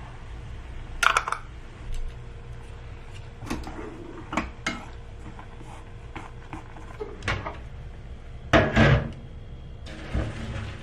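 Kitchen handling sounds: dishes, utensils and cookware set down and moved, giving a string of scattered clinks and knocks, the loudest a short clatter near the end, over a steady low hum.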